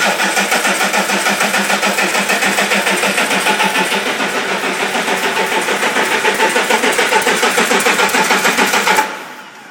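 Electric starter cranking a Caterpillar 14-litre diesel engine at full compression, with a steady, even rhythm of compression strokes. The cranking cuts off suddenly about nine seconds in and the engine does not keep running.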